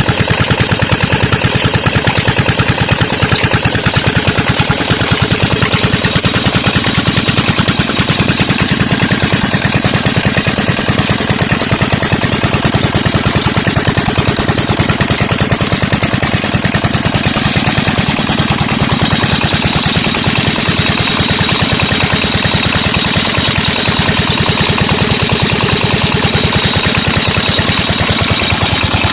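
16 hp diesel engine driving a tube-well water pump, running steadily with a fast, even beat of firing strokes.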